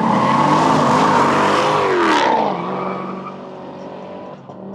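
Race cars passing at full throttle in a drag race. The engine noise swells to a peak about two seconds in, its pitch falls sharply as they go by, and then it fades away.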